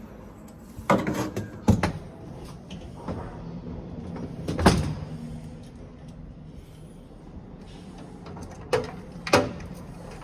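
About five knocks and clunks of things being handled, the loudest near the middle, over a faint steady low hum.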